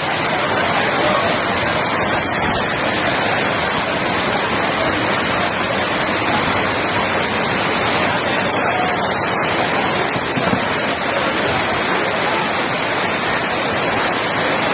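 Heavy rain pouring down, a loud, steady, dense hiss with no let-up.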